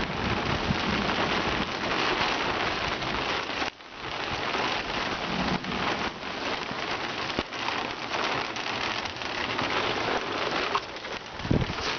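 Heavy rain pouring down and pattering on surfaces in a dense, steady wash, with a brief lull about four seconds in.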